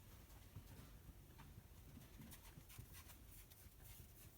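Near silence, with a few faint scattered ticks and handling noises.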